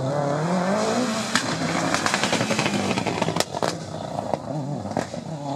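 Rally car engine revving hard, its pitch climbing as it accelerates, then a rasping mix of engine and tyre noise broken by several sharp cracks.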